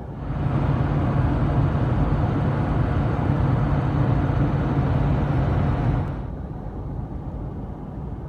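Cab noise inside a diesel Ford F350 pickup at highway speed: tyre, wind and engine noise with a steady low hum. It grows sharply louder just after the start and falls back about six seconds in.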